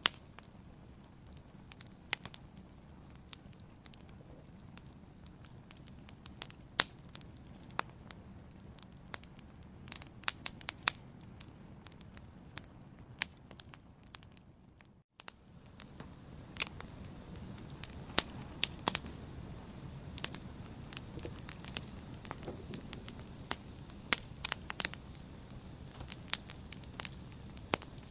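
Wood fire burning in a fireplace: irregular sharp crackles and pops over a steady low rumble of flame. About halfway through, the sound drops out for a moment, then resumes with a fuller low rumble.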